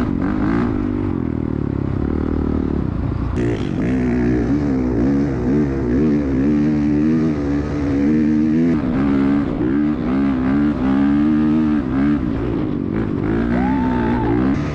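Dirt bike engine running hard while being ridden, its pitch rising and falling again and again as the throttle is worked.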